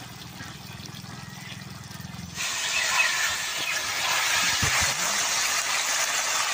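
Chicken and potato pieces frying in oil in an iron kadai: a steady, loud sizzle that starts abruptly about two seconds in, after a quieter stretch with a low hum. The meat is being fried down until the oil separates out of it.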